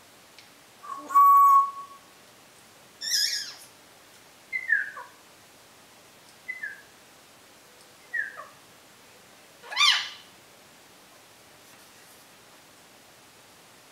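African grey parrot whistling and calling: about six short calls, starting with a steady whistle, then several brief chirps that slide down in pitch, the loudest near the end of the series.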